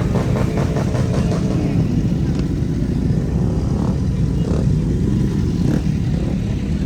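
Motorcycle being ridden: a steady engine and wind rumble, heavy in the low end, picked up by a rider-mounted microphone.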